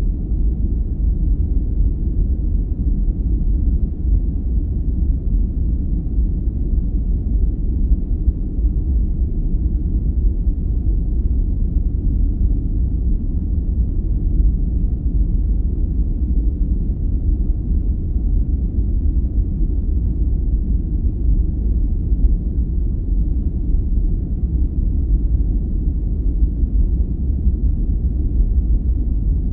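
Continuous sleep-aid noise, a deep, even rumble with most of its weight in the lows and almost no hiss, unchanging throughout.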